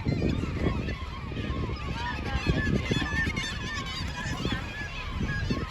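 Dense chorus of a seabird nesting colony: many gulls and other seabirds calling over one another in short, overlapping cries, over a steady low rumble.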